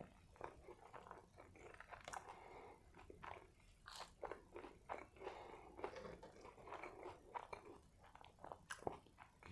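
Faint, close-up chewing of food: a mouthful worked over with irregular small crunches and wet mouth clicks.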